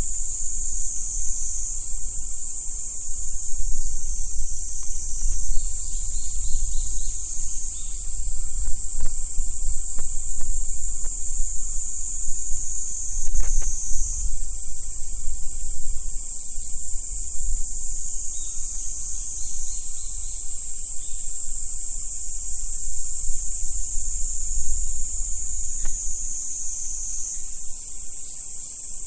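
Insect chorus: a continuous high-pitched shrill drone that shifts slightly in pitch a few times, over a low rumble.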